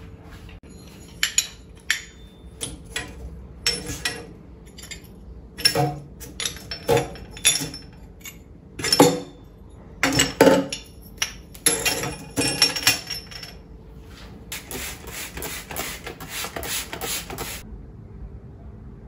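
Kitchen clatter: dishes, glass and utensils knocking and clinking in a run of separate sharp hits, followed near the end by a few seconds of fast scratchy noise.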